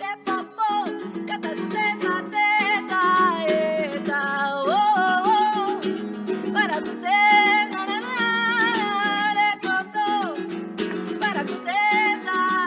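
A song with a singing voice carrying a wavering melody with vibrato over strummed guitar chords.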